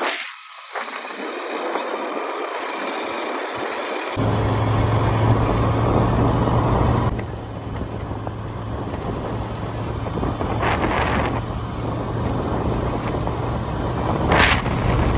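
Riding noise on a moving motorcycle: steady wind and road rush with a low engine hum that comes in sharply about four seconds in. There are a few short sharper sounds near the end, likely from traffic.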